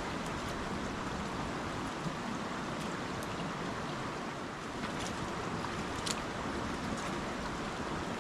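Rain-swollen creek water rushing steadily, with a few faint sharp ticks.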